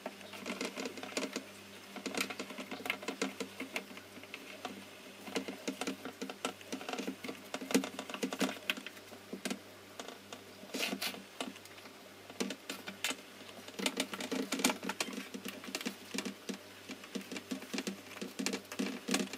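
Fingers pressing and working raw pie dough into a metal baking pan: many soft, irregular taps and rustles, with the odd tap against the pan's edge.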